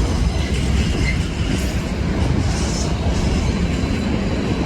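A train running past on the track through the station: a loud, steady rumble of wheels on rails.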